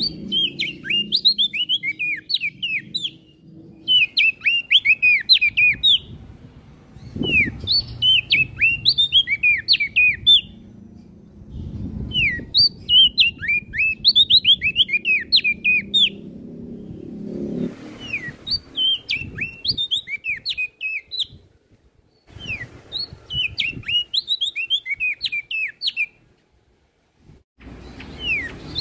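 A prenjak daun songbird singing in repeated bursts of quick, high chirping notes that swoop up and down, each burst lasting two to three seconds with short pauses between, over faint low background noise.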